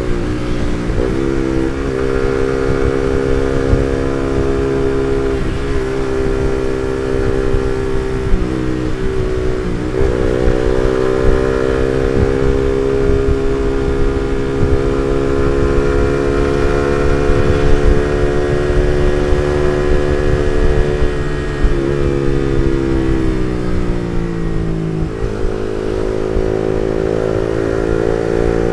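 Suzuki GSX-R150's single-cylinder engine through an R9 Misano aftermarket exhaust, running at riding speed. The engine note holds steady with a few brief dips in pitch, sinks as the bike slows a little after twenty seconds in, then rises again near the end. Low wind and road rumble runs underneath.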